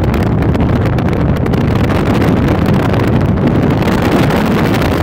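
Steady road and wind noise of a car driving at highway speed, with wind buffeting the microphone.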